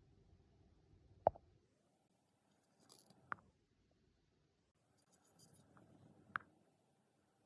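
Three sharp, short taps or clicks, about two and three seconds apart, over faint handling noise.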